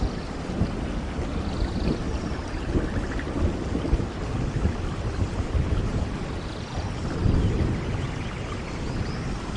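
Steady rain with a low rumble of thunder underneath, the rumble swelling about seven seconds in.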